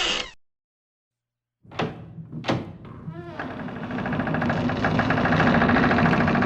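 Two sharp clicks a little under a second apart, then a steady mechanical running sound from a motor that builds up over a couple of seconds and keeps going.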